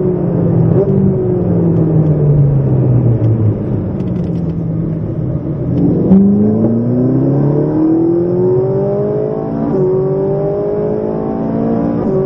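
Ferrari 458 Italia's V8 heard from inside the cabin on track: the engine note falls over the first few seconds as the car slows, then about six seconds in it climbs steadily under hard acceleration, with a short dip near ten seconds as it shifts up.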